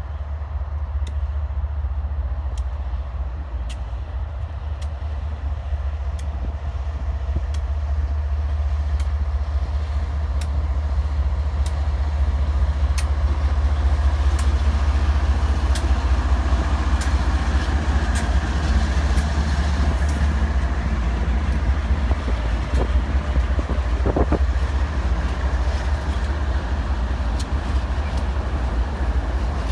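BNSF diesel locomotives running by with a steady, deep engine rumble that grows louder over the first half. Regular sharp clicks of steel wheels over rail joints come through it.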